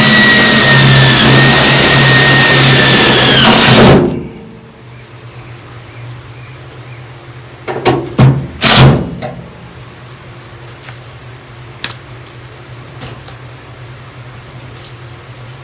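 Handheld power tool running at full speed for about four seconds, then released and winding down. Two short bursts of it follow a few seconds later.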